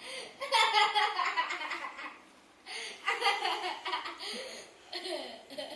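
A person laughing hard in three bouts, each a string of quick breathy pulses.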